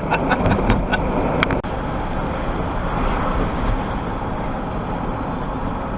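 Steady engine and road noise heard inside a moving lorry's cab, with a few short clicks in the first second and a half.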